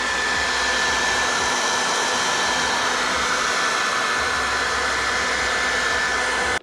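Handheld hot-air blower running steadily, a blowing rush with a thin steady whine, heating the tint film so it can be stretched over the headlight. It switches off abruptly at the end.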